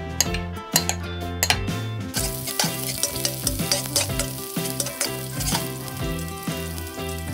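Chopped onion and spring onion frying in oil in a miniature pan: a sizzle that starts suddenly about two seconds in, with small clicks of the tiny spoon stirring.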